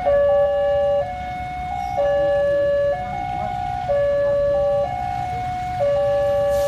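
Railroad level-crossing warning alarm sounding, an electronic two-tone signal that alternates a lower and a higher tone about once a second each, over a steady low rumble.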